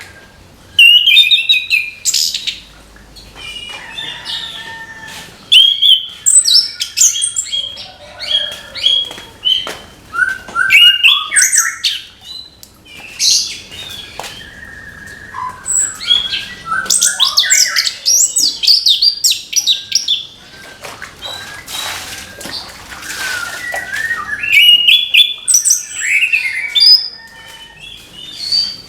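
Chestnut-capped thrush (anis kembang) singing: a long run of loud, rapid, varied whistled and chattering phrases with short pauses between them.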